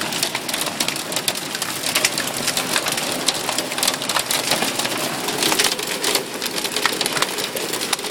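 Hailstorm: a dense, continuous rattle of hailstones and rain striking surfaces, with many sharp individual impact clicks.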